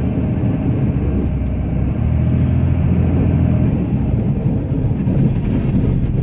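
Cummins inline-six turbodiesel of a Ram pickup running steadily, heard from inside the cab as a low, even hum.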